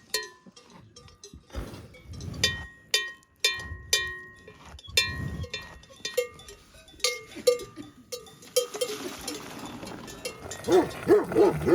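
A cowbell clanking irregularly, many separate strikes each ringing briefly, as the belled cow moves.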